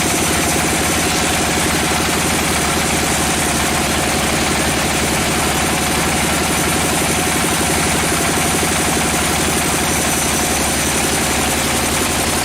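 Engine running steadily with a fast, even pulse and no change in speed.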